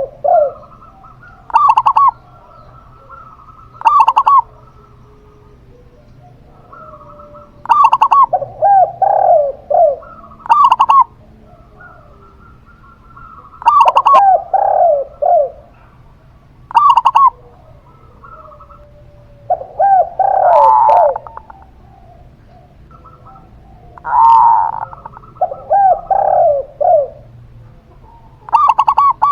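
A local zebra dove and a spotted dove cooing back and forth. Bouts of short, sharp notes and lower, rounded coos come every few seconds.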